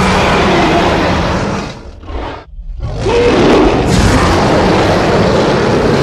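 Tyrannosaurus rex roar sound effect: a loud, deep roar that fades after about two seconds, a brief growl, then a second, longer roar from about three seconds in that dies away at the end.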